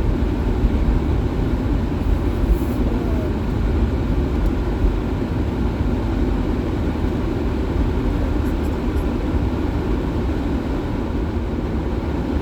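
Steady low rumble of a small car heard from inside its cabin, the road and engine noise of the car on the move.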